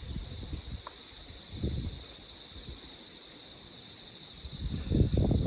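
A chorus of night insects, crickets, singing in one steady, unbroken high trill, with a few soft low knocks partway through and near the end.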